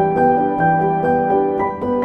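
Calm, slow ambient solo piano music: single notes and soft chords struck a few times a second and left to ring into each other.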